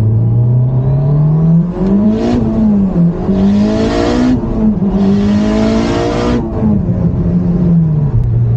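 Turbocharged Mitsubishi Lancer Evolution IX inline-four pulling hard through the gears. Its note climbs in pitch, drops at each shift, then settles lower near the end, with loud hissing rushes over the middle of the pull.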